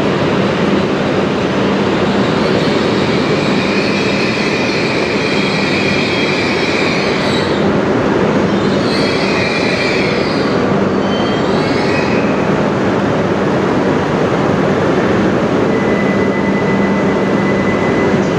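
A JR Hokkaido H5 series Shinkansen train rolls slowly into the platform, with a steady low hum under a constant rushing noise. High squeals come and go from about three seconds in until about twelve seconds in.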